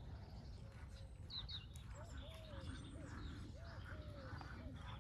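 Birds calling: two quick high chirps about a second in, then a run of short rising-and-falling calls repeated about twice a second, over a steady low rumble.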